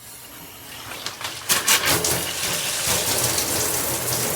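Water spraying from a shower head as it is turned up, building from faint to a steady hissing spray about a second and a half in.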